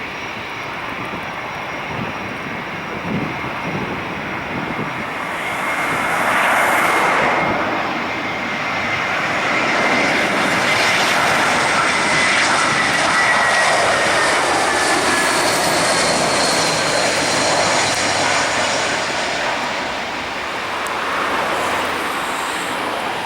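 Airbus A320-232SL jet airliner with IAE V2500 turbofans passing by. The engine roar swells about six seconds in and stays loud for most of the time, while a thin whine slowly falls in pitch as the aircraft goes past.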